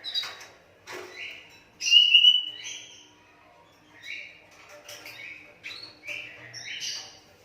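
Young hand-fed Asian pied starling giving a run of short, harsh, squawky calls, loudest about two seconds in. Two sharp clicks come near the start.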